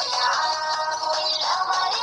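Music: an Arabic children's song, a voice singing over a bright backing track.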